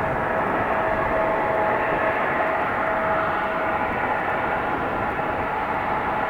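Airliner engines running with a steady rush and a held whining tone, easing off slightly toward the end.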